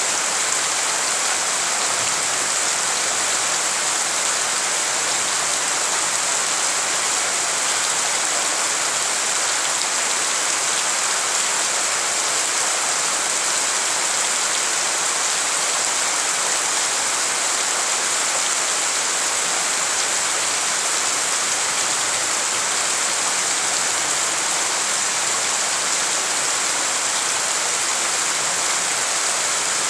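Steady rain falling on a wet paved courtyard, an even, unbroken hiss.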